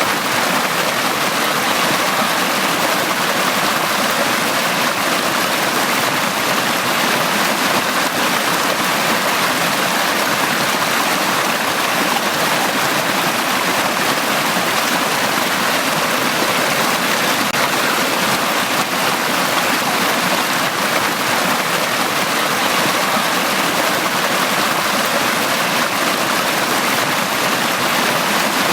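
Valley stream flowing steadily, an even rushing and babbling of water that doesn't change.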